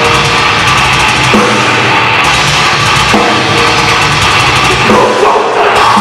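Live heavy metal band playing loud and at full tilt, with distorted guitars, bass and a drum kit with double bass drum and crashing cymbals; the guitar chords change about every second and a half.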